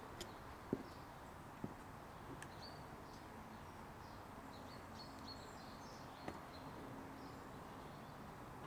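Faint outdoor background hiss with small bird chirps and a couple of soft clicks in the first two seconds; no engine running.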